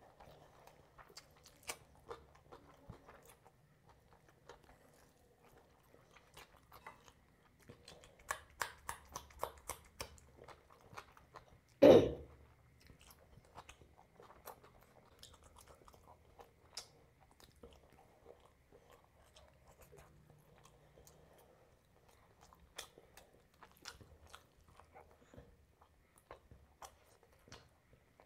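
Close-miked ASMR eating: chewing and crunching of rice and mutton curry eaten by hand, with many sharp mouth clicks and a quick run of crunches about eight to ten seconds in. One loud, short knock comes about twelve seconds in.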